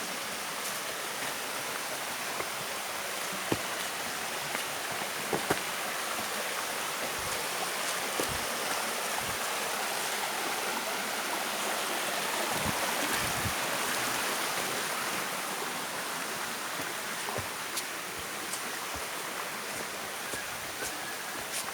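Rushing stream water, a steady even noise, with a few soft knocks scattered through it.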